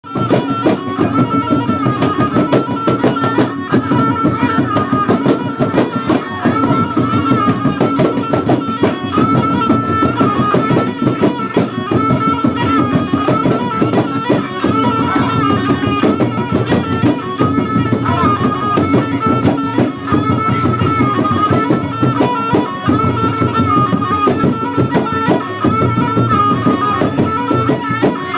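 Traditional North Maluku dance music of the salai jin kind: drums beating steadily under a high melodic line that repeats the same short phrase over and over. It starts abruptly.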